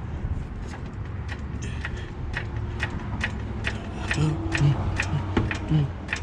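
Sharp mechanical clicks, about three a second, over a steady low hum.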